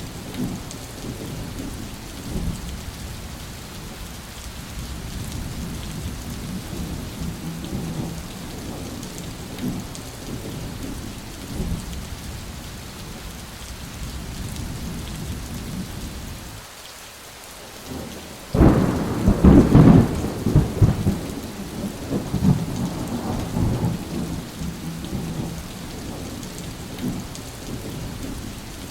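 Steady rain with low rolling thunder. About two-thirds of the way through, the rain thins for a moment, then a sharp, loud thunderclap breaks and rumbles away over several seconds.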